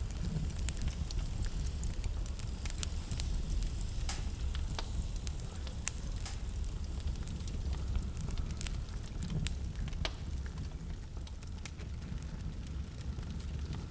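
Wood fire burning in a fireplace: a steady low rumble of the flames with scattered sharp crackles and pops, thinning out near the end.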